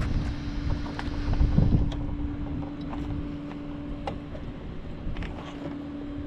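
Steady vehicle engine hum with a low rumble that swells about one and a half seconds in, wind on the microphone, and a few faint clicks.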